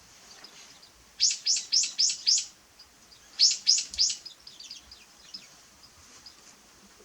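A bird calling: a quick run of five loud, sharp, downward-sweeping notes, a short pause, then three more, trailing off into fainter notes.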